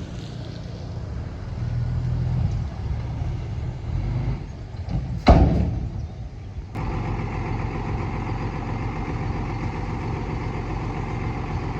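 Heavy diesel engine of earth-moving machinery running. About halfway through comes one loud, sudden burst that dies away within half a second. About a second later the engine sound turns abruptly steadier and more even.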